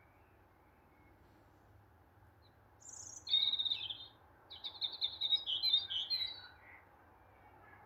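A songbird singing at dusk: a short high note about three seconds in, then a phrase of rapid high twittering trills, a brief pause, and a second, longer twittering phrase that fades out about two seconds later.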